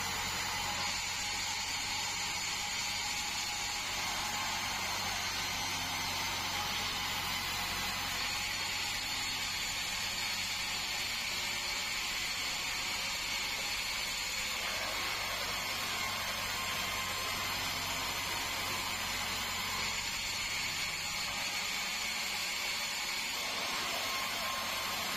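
Band sawmill running steadily, a constant mechanical hum with a high steady whine over it.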